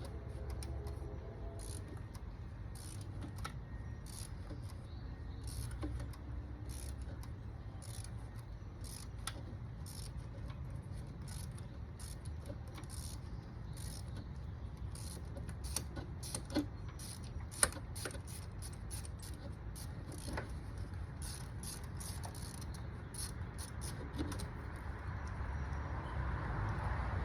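Irregular light metallic clicks and clinks of hand tools and engine parts being handled while spark plugs are removed, with a couple of louder knocks midway, over a steady low background rumble.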